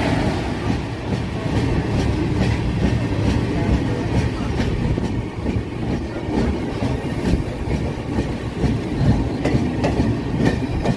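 Express train's LHB passenger coaches running along the track: a steady low rumble with irregular clicks of the wheels over rail joints.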